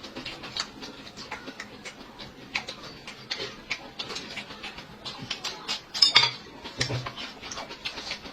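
Eating utensils clicking and clinking against bowls and dishes during a meal, with a louder clatter about six seconds in.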